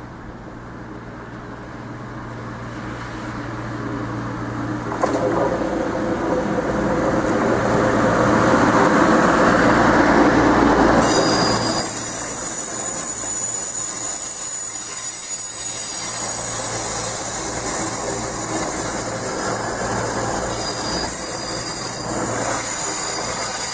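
Voyager diesel multiple unit arriving, its engine and running noise growing louder as it approaches, with a sharp clack about five seconds in and the loudest stretch around eight to ten seconds. From about eleven seconds in, as the cars roll slowly past, steady high-pitched wheel squeal rings over the rumble.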